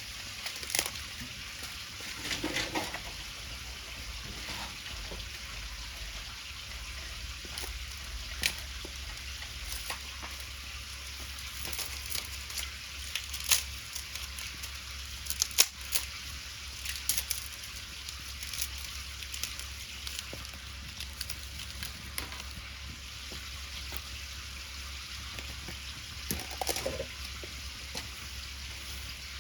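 Wood fire crackling: irregular sharp pops and snaps over a steady sizzling hiss.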